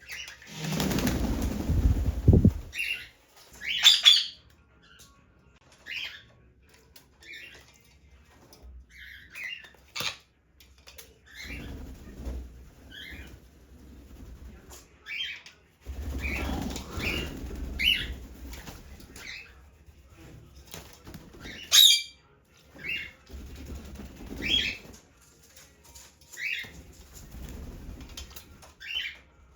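A pet parrot flapping its wings while bathing, in several bouts. The first and loudest bout comes at the start, and short, high chirps are scattered between the bouts.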